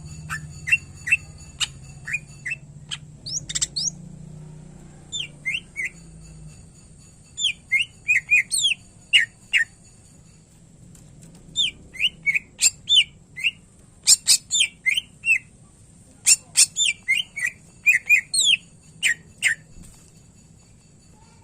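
A cucak ijo (greater green leafbird) singing in quick runs of short, sharp whistled notes and chirps that slide in pitch, with mimicked phrases of other birds worked into the song. There are pauses about ten seconds in and near the end.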